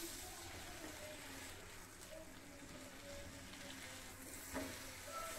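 Faint sizzling of butter and bread toasting on a hot flat griddle, with a single light tap about four and a half seconds in as a slice is set down.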